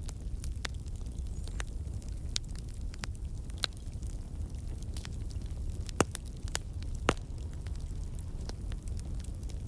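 Wood campfire burning with a steady low rumble of flame and scattered sharp crackles and pops from the logs, two louder pops about six and seven seconds in. The crackling is the sap and trapped water in the wood turning to steam and bursting out.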